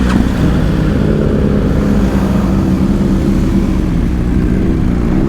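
Motorcycle engine running at fairly steady revs while riding, with wind noise over the microphone.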